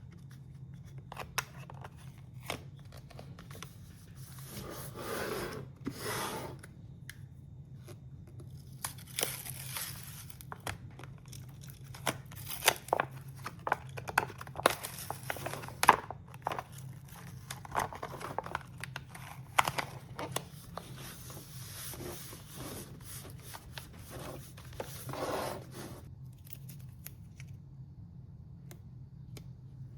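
Hand work at a bench: scattered sharp clicks and taps with several stretches of tearing and crinkling, as of tape or insulating sheet being handled and cut, over a faint steady low hum.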